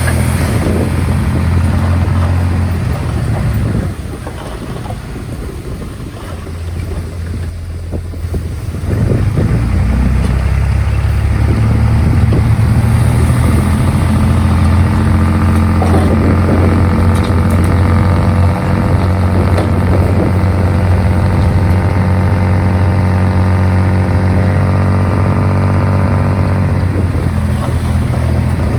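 Bulldozer's diesel engine running. It drops quieter about four seconds in, then rises again a few seconds later and runs steady and louder for the rest.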